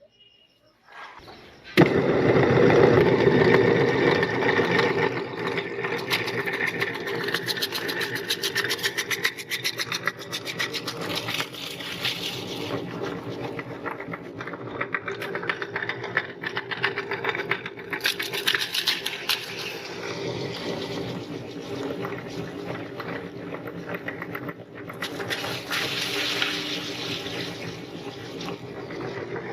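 Electric meat grinder switched on about two seconds in, its motor humming steadily while it grinds something with a constant dense crackling and crunching; loudest just after it starts.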